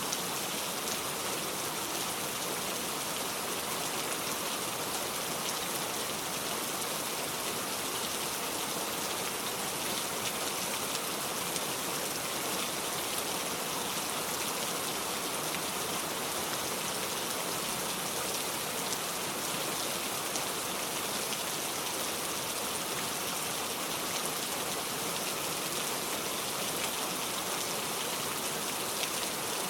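Steady rain, an even hiss of falling drops without a break.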